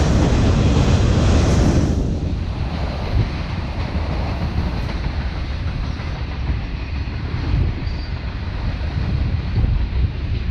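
A train rolling past, its rail cars making a steady, loud rumble; louder and hissier for about the first two seconds, then settling into a lower, even rumble.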